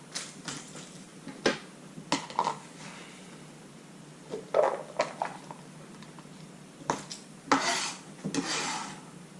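Kitchen knife knocking on a cutting board at irregular intervals while dicing an onion, with two longer scraping sounds near the end.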